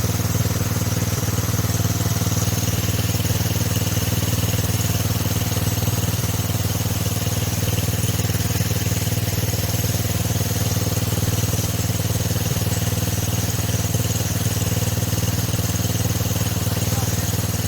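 Small tractor engine running steadily at an even speed, without revving up or down.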